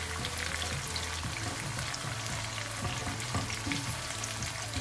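Smoked mackerel fillets and sliced onions frying in hot oil in a pan: a steady sizzle with a crackle of many small pops, while a silicone spatula stirs through them.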